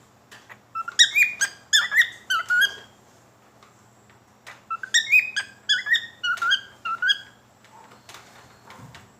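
Pet cockatiel whistling its song in two short phrases of quick chirpy notes that rise and fall in pitch, with a pause between the phrases.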